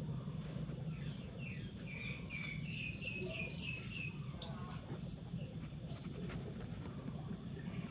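Birds chirping: a quick run of short, falling chirps for a couple of seconds, with scattered high peeps, over a steady low hum.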